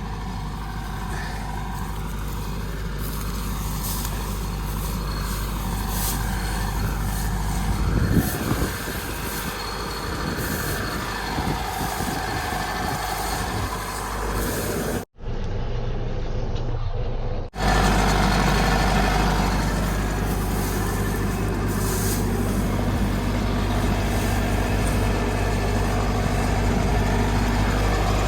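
Kubota ER470 combine harvester's diesel engine and threshing machinery running steadily while harvesting in a muddy rice paddy. The sound briefly drops out about halfway through, then is muffled for a couple of seconds.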